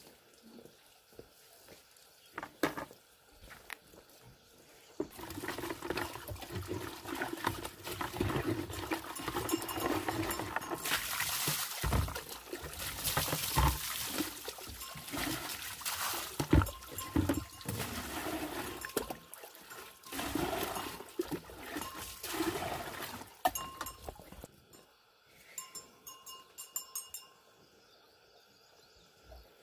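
Water splashing and running, with irregular knocks and clicks, starting about five seconds in and stopping near the end.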